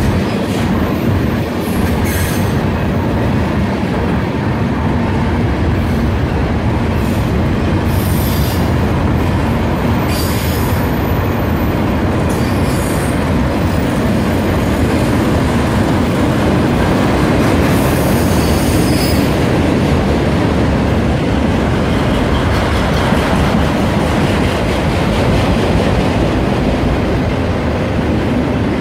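Freight train of boxcars and autorack cars rolling past: a steady rumble of steel wheels on rail, broken by several brief high metallic wheel squeals, the longest about two-thirds of the way through.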